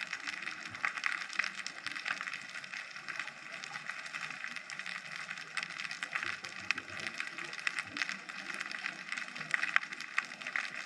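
Underwater sea ambience: a steady, dense crackle of many tiny clicks, recorded by a GoPro camera underwater.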